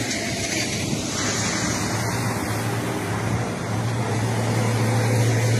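Steady running noise of a car with its engine on, a low engine hum growing stronger about two-thirds of the way in.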